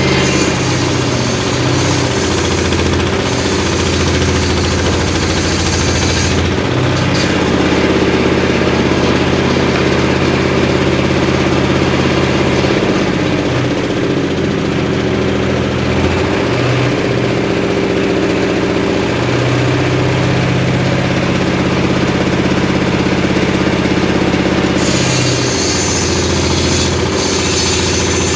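The engine of a home-built circular saw rig runs steadily while the saw rips short lengths of wood. The engine's pitch dips and recovers several times as the blade takes the load.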